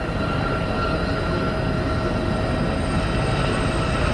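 Formula One racing car engines running at high revs with a steady, high-pitched note, over a low rumble.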